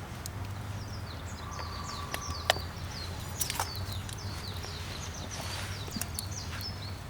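Small birds calling in quick series of short, high, falling chirps, over a steady low hum. A single sharp click about two and a half seconds in stands out as the loudest sound.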